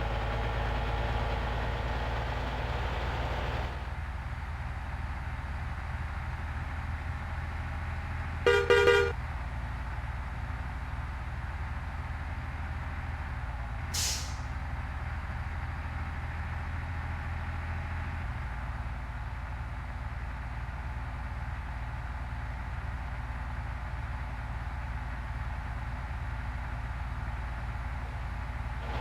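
Heavy truck's engine running with a steady low drone, a short horn blast about nine seconds in, and a brief hiss of air about fourteen seconds in.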